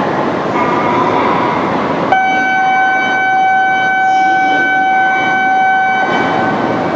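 E2-series Shinkansen train arriving with loud running noise; about two seconds in, a single steady horn tone sounds for about four seconds, then stops, leaving the running noise.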